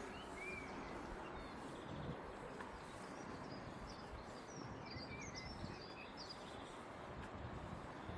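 Outdoor ambience: a steady low background noise with small birds chirping, several quick high chirps in a cluster around the middle.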